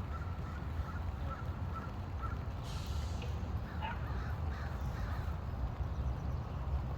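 A bird calling a few times, mostly about three to five seconds in, over a steady low rumble.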